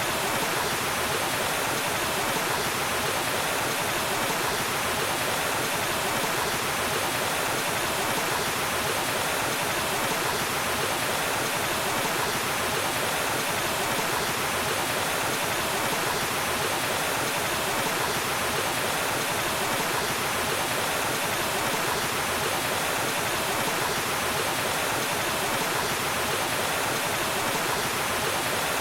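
Waterfall: falling water rushing with a steady, even noise that does not change.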